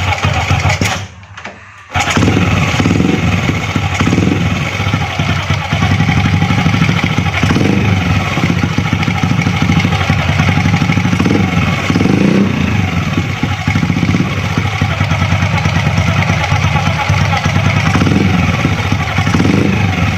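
Honda Astrea Grand motorcycle's small single-cylinder four-stroke engine starting after a short first burst and then running steadily at idle from about two seconds in. It runs without the scraping noise from the magneto cover, the plate that had been rubbing on the flywheel magnet having been put right.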